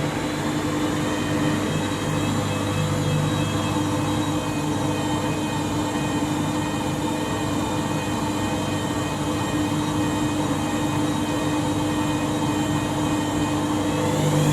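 Washing machine motor running with a steady whine as the drum spins, its pitch starting to climb sharply near the end as the drum speeds up.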